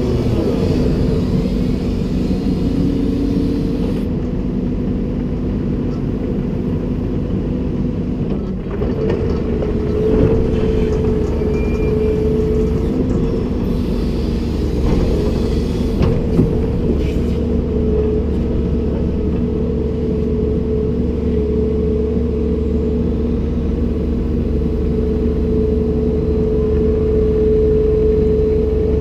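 Komatsu PC290-10 excavator's diesel engine running steadily, with a steady pitched tone over the engine hum and a few short knocks around the middle.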